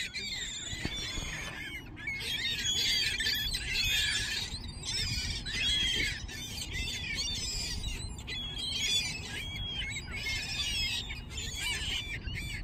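A flock of gulls calling over one another as they feed on bread: many short, high, overlapping squealing calls, starting about a second and a half in.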